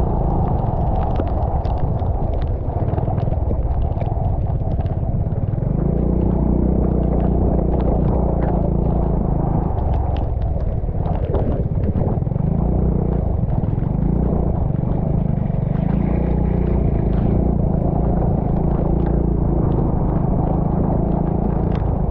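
Vehicle engine running steadily under way, its low note shifting up and down in pitch a few times, with rushing noise and scattered knocks over it.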